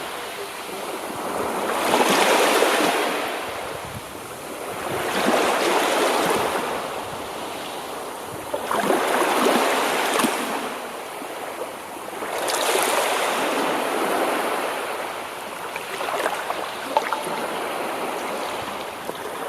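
Sea surf on a shore: waves breaking and washing in and out, swelling and fading about every three to four seconds.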